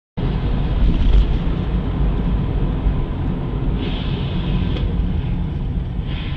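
Steady low rumble of a car on the move, engine and road noise together, cutting in abruptly just after the start.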